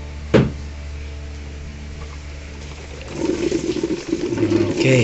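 A sharp click, then about three seconds later the repaired Dowell coffee maker's heating element starts heating water and it begins gurgling and hissing through the machine, the sign that the new thermal fuse has restored the heater.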